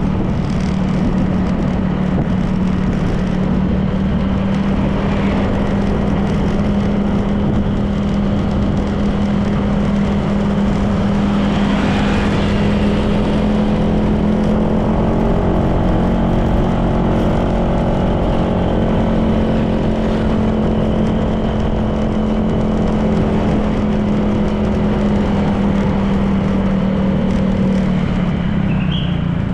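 Honda PCX 160 scooter's single-cylinder engine running at a steady cruising speed, with road noise around it. A second engine note joins for a stretch in the middle, and the engine note dips slightly near the end.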